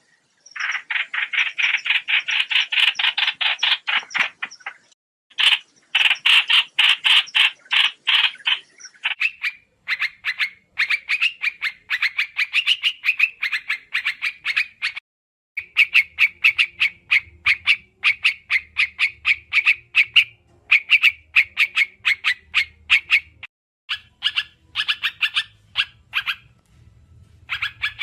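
Trao trảo bird lure call, as used for bird trapping: rapid chattering strings of short notes, about ten a second, in bouts of a few seconds with short breaks.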